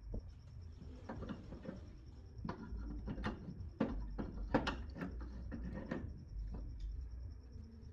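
A run of irregular light knocks and clicks, about a dozen, as of tools and parts being handled, over a steady low hum.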